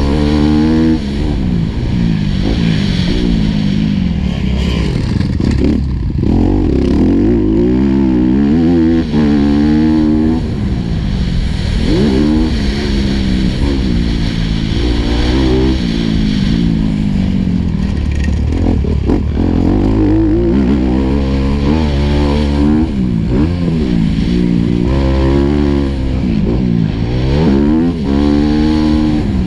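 Four-stroke motocross bike engine heard on board, revving hard and backing off again and again as the rider works the throttle and gears around the track, its pitch rising and falling every few seconds.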